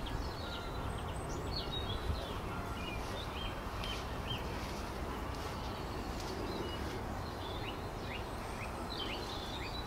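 Small birds chirping: many short, high, falling chirps, thicker from about three seconds in, over steady low outdoor background noise.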